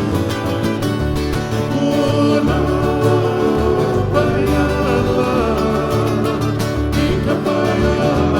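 Hawaiian acoustic string-band music: plucked guitars over a bass line, playing an instrumental passage of a medley.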